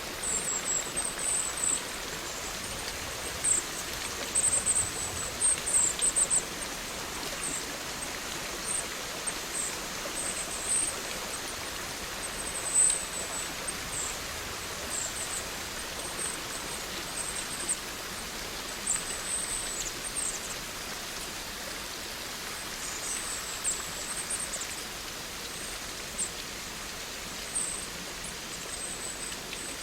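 Steady rain falling, an even hiss, with short, very high-pitched chirps scattered irregularly over it, most frequent in the first few seconds.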